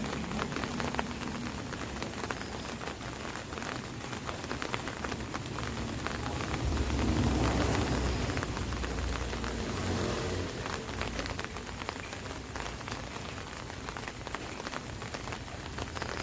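Rain falling on an umbrella: a dense patter of drops hitting the canopy, with a low rumble swelling about seven seconds in.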